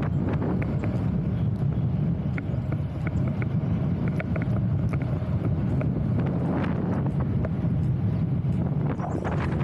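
Steady low rumble of wind buffeting the microphone on a windy day, with scattered light ticks and clicks through it.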